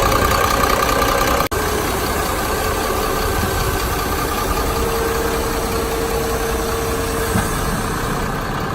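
Diesel engine of a Hyundai 5-ton cargo truck idling steadily, with a momentary dropout about a second and a half in.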